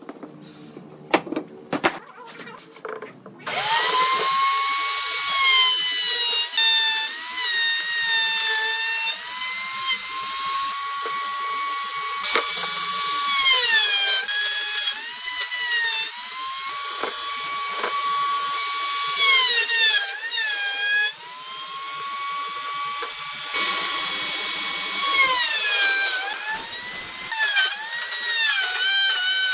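A few sharp clicks, then about three seconds in a handheld electric power tool, such as a drill, starts running with a high whine. Its pitch dips again and again and recovers as the tool is pressed into the wood under load.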